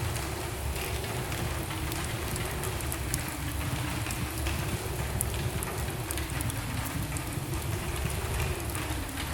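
Wood fire burning in a fireplace: a steady low roar of the flames with scattered crackles and pops of burning logs.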